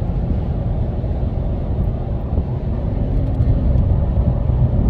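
Steady low rumble of a car driving on the road, engine and tyre noise without a break, with a faint hum for about a second midway.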